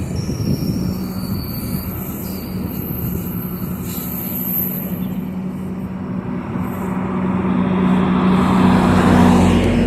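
A train: a diesel locomotive engine drones steadily, with rolling noise that grows louder over the last few seconds.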